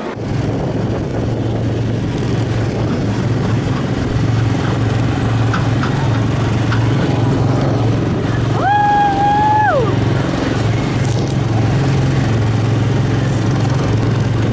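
Small gasoline engine of a Tomorrowland Speedway ride car running steadily while driving. A brief high-pitched tone of about a second cuts in near the middle.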